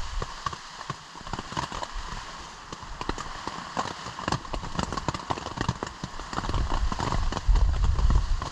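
Rain falling, with many irregular drops ticking sharply on a nearby surface over a steady hiss. Gusts of wind rumble on the microphone toward the end.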